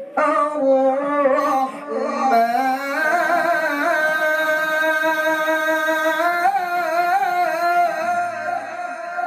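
A male Quran reciter's voice in melodic tilawah: quick ornamented turns in the first three seconds, then one long held note with a slight vibrato.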